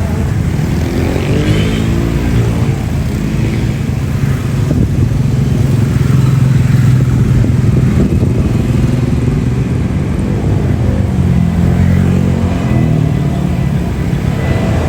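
Airbus A330-900neo airliner's Rolls-Royce Trent 7000 turbofans at departure power, a loud steady jet roar. Low droning tones bend up and down in pitch, about a second in and again near the end, as the aircraft moves past.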